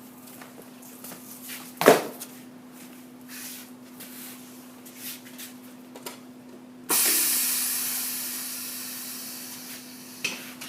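Truck tire sidewall remover running with a steady hum, a sharp knock about two seconds in and a few light clicks. Near the middle a loud hiss starts suddenly and slowly fades away.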